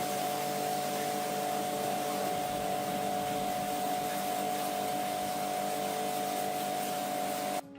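A motor-driven machine or power tool running steadily: a loud hiss with a steady whine in it, cutting off suddenly near the end.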